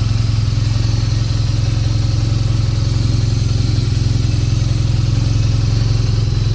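BMW R nineT Scrambler's air/oil-cooled boxer twin engine idling steadily, with an even, unchanging beat.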